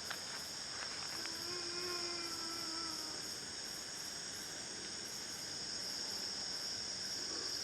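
Steady, high insect chorus in the forest. About a second in, a faint, drawn-out wailing tone sounds for about two seconds; the listener takes it for a sound like someone crying.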